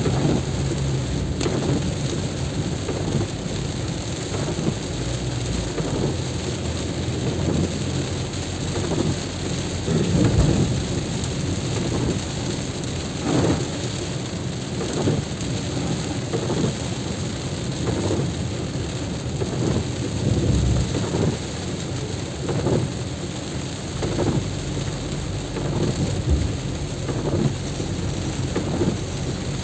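Heavy rain: a steady loud hiss with many irregular low thuds hitting the microphone.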